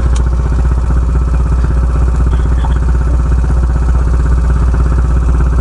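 Dirt bike engine idling steadily with an even, rapid beat, no revving.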